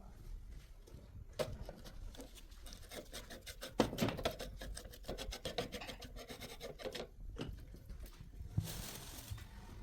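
Hand work on starter motor parts: a run of quick scraping and rubbing strokes, several a second, in the middle, then a short hissing burst near the end.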